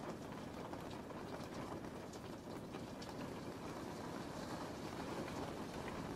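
Steady rain: an even hiss with many small, scattered drop ticks.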